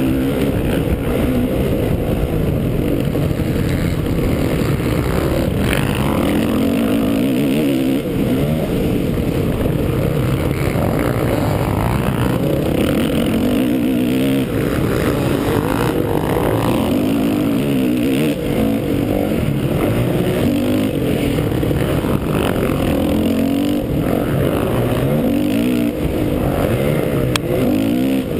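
Honda 450 four-stroke motocross bike engine revving hard and constantly, its pitch climbing and dropping over and over as the rider accelerates, shifts and backs off around the track. Heard up close from the bike, with a constant rush of wind and track noise.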